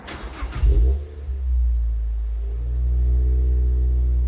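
Mazda MX-5 NC four-cylinder engine cranking for about a second, catching, and settling into a steady idle that gets a little louder about halfway through, heard from inside the cabin. This is the first start on the newly fitted fuel pump, and the engine fires straight away.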